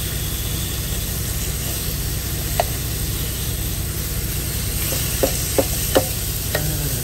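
Diced chicken breast sizzling in an electric skillet while a plastic slotted spatula stirs it, tapping and scraping the pan a few times in the second half. A steady low hum runs underneath.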